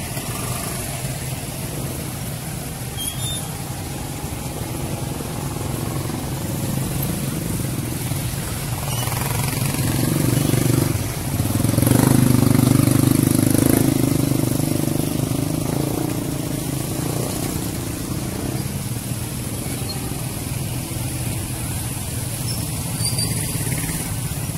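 Steady road traffic with engines running, one vehicle passing close and louder about halfway through.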